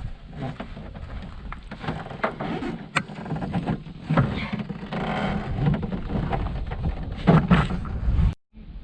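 Paddling a canoe on a lake: irregular splashing and patter of paddle strokes in the water, over a steady low rumble, cut off abruptly near the end.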